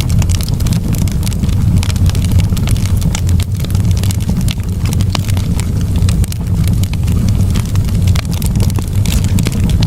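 Wood campfire burning, with frequent sharp crackles and pops over a steady low rumble.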